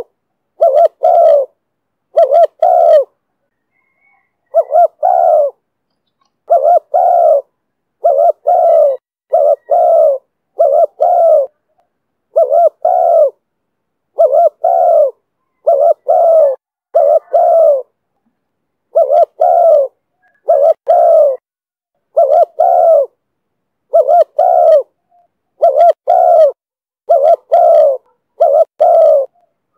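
Spotted dove cooing over and over in the call style Vietnamese keepers call 'thổ thúc bổi': loud, low coo notes in short groups of two or three, with brief silent gaps and one longer pause a few seconds in.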